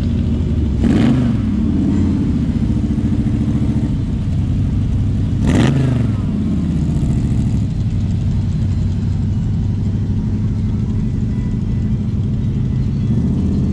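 Car engines running at low speed, with a steady rumble throughout. Vehicles pass close about a second in and again about five and a half seconds in, each swelling briefly louder as it goes by.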